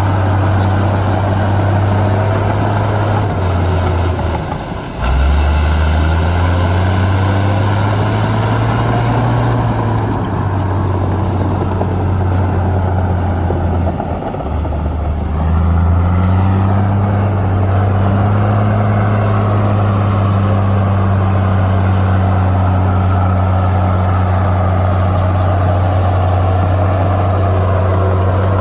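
Heavy diesel engine of an earthmoving machine running hard, its low steady drone sagging twice, about four and fourteen seconds in, then climbing back up in pitch.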